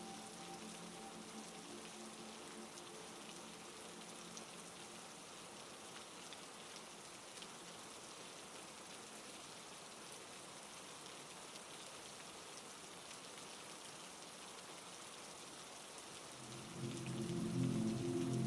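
Steady heavy rain, an even hiss with small drop ticks. A low sustained musical drone fades out over the first few seconds and comes back louder near the end.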